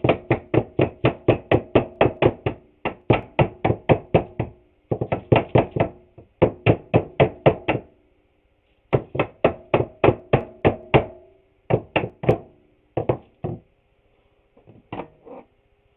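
Rapid hammer taps on a wooden trim board, about five a second in runs of one to two seconds with short pauses, knocking the board into place onto nails. The taps grow sparser and fainter near the end.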